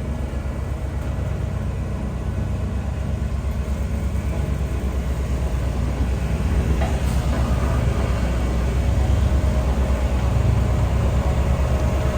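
Bulldozer's diesel engine running with a fast, low throb, growing gradually louder.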